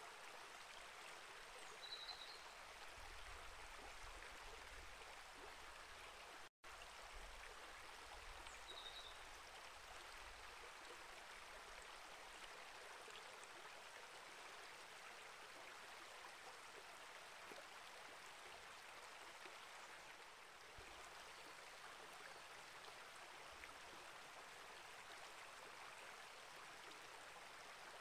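Small rainforest creek flowing and trickling quietly and steadily over rocks. A small bird gives two brief high chirps, about two seconds and nine seconds in, and the sound cuts out for an instant about six and a half seconds in.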